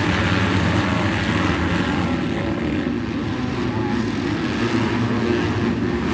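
A pack of 250-class motocross bikes racing together, many engines running at once in a dense, steady mix of overlapping engine notes.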